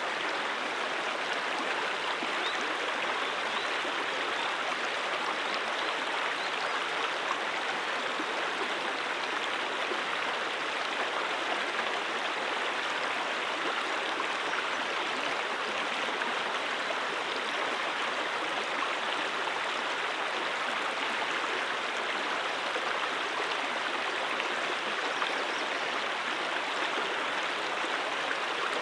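A brook flowing steadily, an even rushing and babbling of running water with no change in level.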